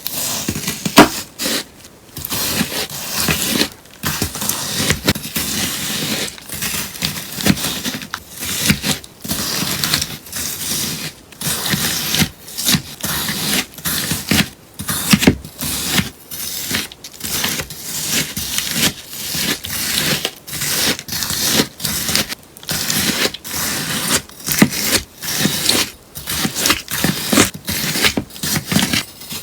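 A sponge being cut in a steady run of crisp, scratchy cutting strokes, about one or two a second.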